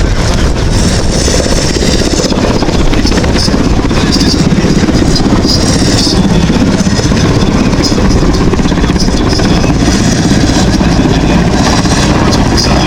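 Mil Mi-171Sh Hip helicopter in flight, its turbine engines and main rotor running loud and steady with a fast, even rotor beat.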